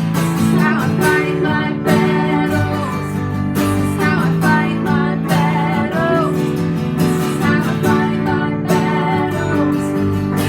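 Music led by strummed acoustic guitar, with chords changing about every two seconds under a wavering melody line.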